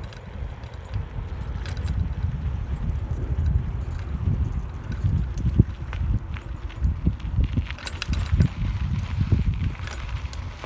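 Wind buffeting the microphone of a camera on a moving bicycle, an uneven low rumble, with scattered light clicks and rattles from the bike.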